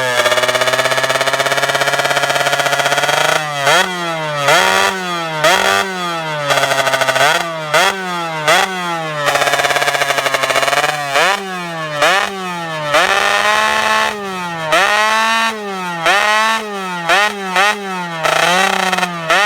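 Yamaha F1ZR's ported two-stroke engine with a Malaysia-style exhaust, revved hard: held high for about three seconds, then a rapid string of throttle blips, each rising sharply and falling back.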